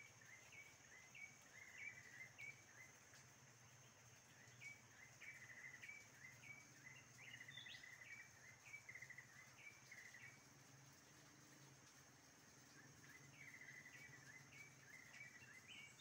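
Faint forest birds calling: groups of short repeated chirps and brief rattling trills, pausing for a few seconds in the middle, over a steady high insect whine.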